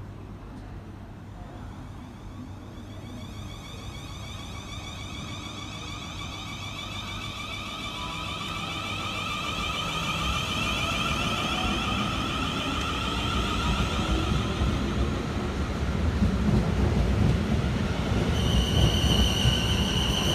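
Class 450 Siemens Desiro electric multiple unit pulling away, its traction motors whining in several high tones that rise slightly in pitch over a low rumble, growing louder as it gets under way. A steady high ringing tone joins near the end.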